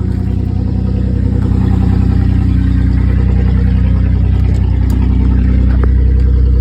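Car engine idling steadily, loud and close.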